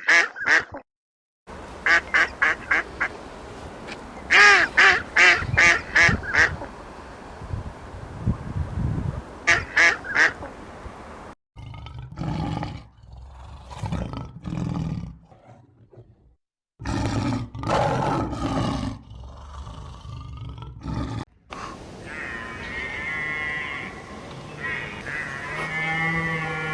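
Several short clips of animal calls joined by abrupt cuts. The first ten seconds or so are a duck quacking in quick runs of short calls; lower, rougher animal calls follow.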